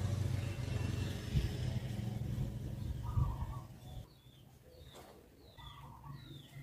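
Female white-rumped shama giving a few faint, short, downward-sliding call notes in the second half, over a low background hum that drops out about four seconds in.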